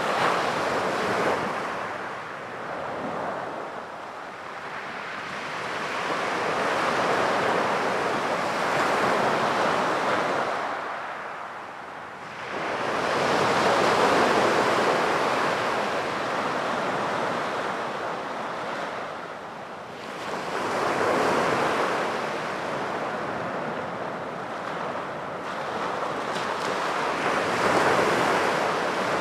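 Surf breaking on a beach, each wave swelling into a hiss and ebbing away. There are about four surges, some 6 to 8 seconds apart.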